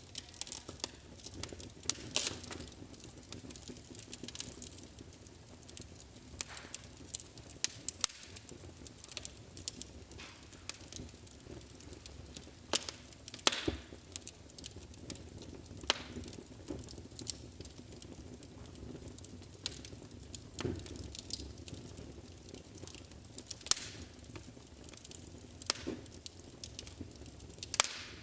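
Wood fire crackling in a fireplace: irregular sharp pops and snaps over a low steady hiss of burning.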